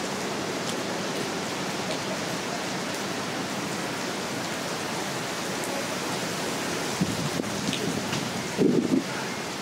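Heavy downpour: steady, even rain noise throughout, with a couple of short, louder sounds in the last few seconds.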